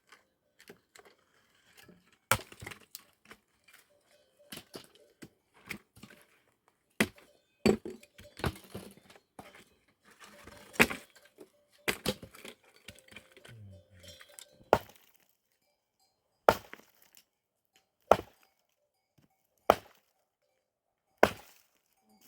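A series of sharp knocks and cracks, like wood or hard material being struck or broken by hand. They come irregularly at first, then settle into single evenly spaced strikes about a second and a half apart in the last few seconds.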